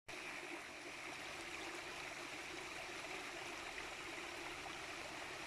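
A stream flowing steadily.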